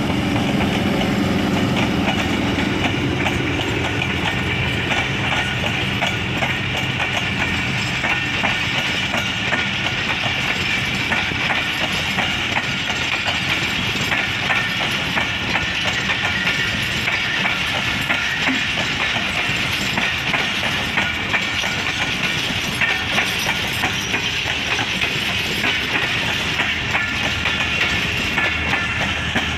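Pakistan Railways passenger train passing close by: the diesel locomotive's engine drone fades over the first few seconds, then a long string of coaches rolls past with steady clickety-clack of wheels over rail joints.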